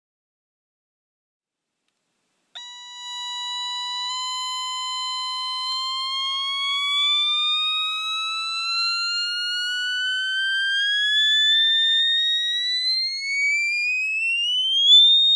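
Silence, then about two and a half seconds in an electronic tone starts at a steady pitch and slowly glides upward, climbing faster near the end.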